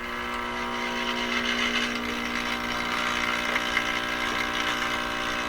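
Admiral Y846 five-tube radio's speaker giving a loud, steady mains hum with hiss, swelling a little over the first couple of seconds as the tubes warm up. The hum is what the repairer expects of failing filter capacitors.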